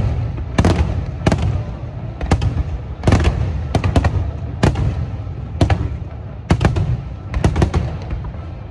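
Aerial firework shells bursting in a large display: sharp bangs at uneven spacing, about two a second, over a continuous low rumble of echoing booms.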